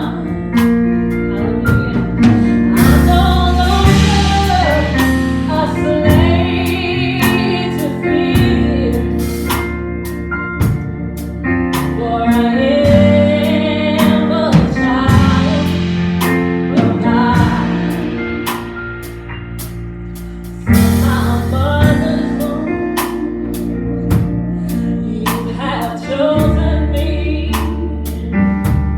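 Gospel praise and worship music: singers with a band, sustained keyboard chords under a steady drum beat. The music eases off for a couple of seconds before coming back in full.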